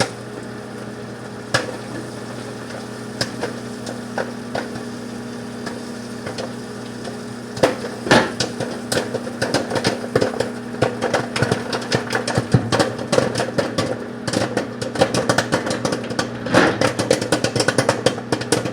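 Microwave oven running on its popcorn setting with a steady hum while a bag of microwave popcorn pops inside: a few scattered pops at first, then rapid popping from about eight seconds in.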